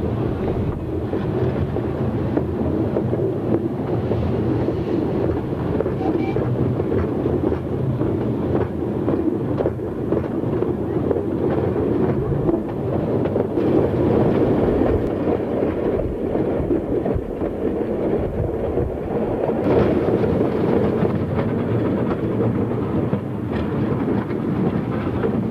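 2 ft gauge train running along the track, heard from on board a moving coach: a steady stream of wheel-and-rail noise with many small knocks and rattles.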